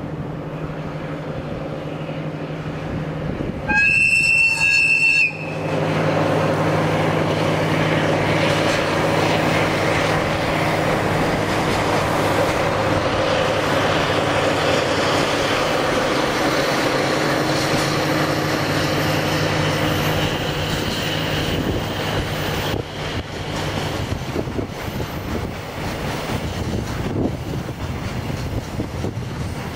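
A double-headed diesel freight train gives one short horn blast about four seconds in. Its two diesel locomotives then pass with a steady low engine drone, followed by the wheel and rail noise of a long string of container wagons rounding a curve.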